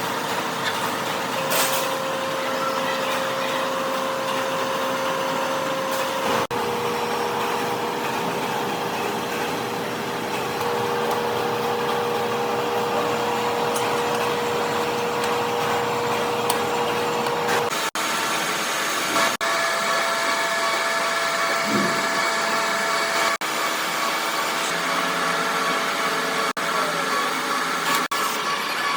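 Workshop machinery running steadily with a droning hum and held tones. The tone changes abruptly several times.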